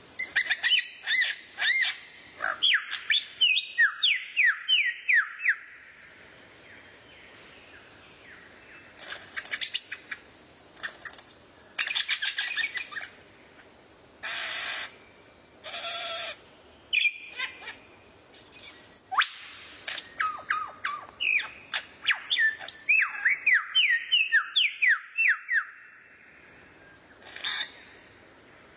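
Songbird song: quick runs of short sliding whistled notes in two spells, one near the start and one in the last third. Between them come short harsh buzzy calls and sharp chips.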